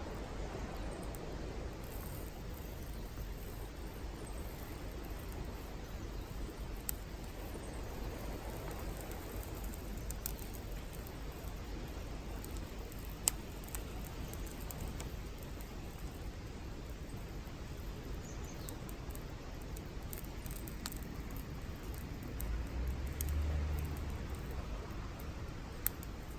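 Wood campfire burning with a steady hiss and a few sharp, isolated pops from the firewood. A low rumble rises briefly about 23 seconds in.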